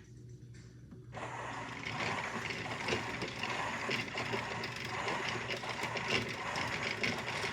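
Washmatic toy washing machine running, its small motor and plastic gears making a steady clicking rattle that starts about a second in.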